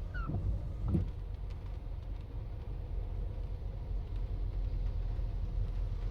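Steady low rumble of a car, with a brief falling squeal near the start and a short pitched sound about a second in.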